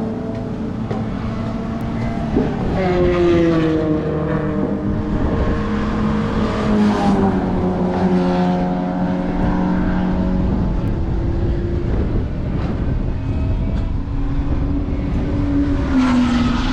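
Race cars running on a road course, their engine notes rising and falling as they accelerate and lift off, with more than one car heard at once.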